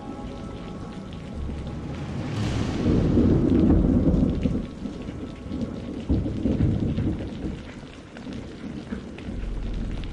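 Thunder over steady rain: a sharp crack about two seconds in, then a low rolling rumble that swells again a few seconds later and dies away, while rain hisses with scattered drops throughout.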